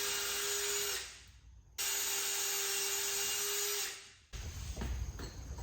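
Electric power drill boring into hard oak: it runs steadily with a constant whine, stops about a second in, starts again a moment later, and winds down near the end. Faint knocks follow.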